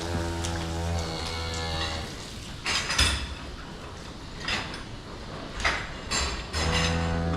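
Cows mooing: one long low moo at the start, lasting about two seconds, and another starting near the end. In between come a few sharp knocks and rustles, the loudest about three seconds in.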